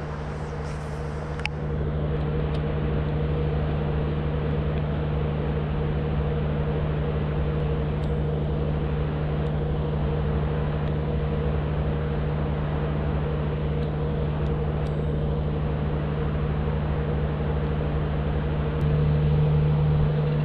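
A steady, engine-like drone with a constant low hum, stepping up in level about a second and a half in and again near the end, with a few faint clicks.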